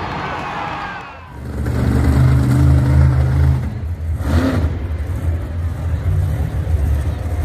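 Monster truck engine running and revving hard: a deep, loud rumble that dips briefly about a second in, then comes back strongly, with surges of throttle.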